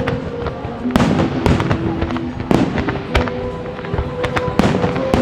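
Fireworks display: a string of sharp bangs and crackles from bursting aerial shells, about one every half second to second, over the display's accompanying music playing on loudspeakers.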